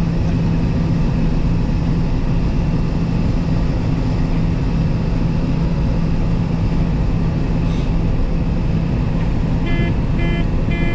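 Steady drone of a John Deere 9650 combine running while it harvests and unloads. Near the end come three short beeps, the cab alert that tells the operator the unloading auger is running.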